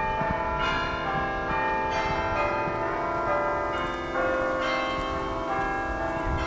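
Church bells ringing, several bells struck in turn with their tones ringing on and overlapping.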